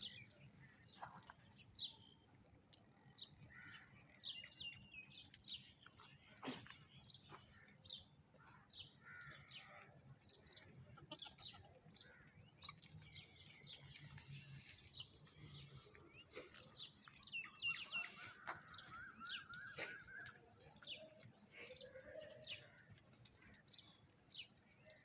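Birds chirping: many short, high calls scattered throughout, with a quick rippling trill about three-quarters of the way through.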